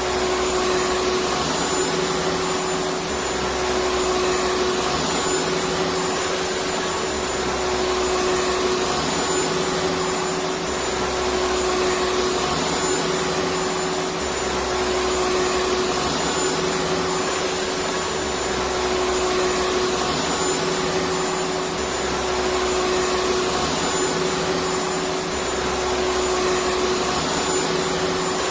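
Vacuum cleaner running steadily: a constant rush of air over a steady motor hum, with a faint low throb coming and going every couple of seconds.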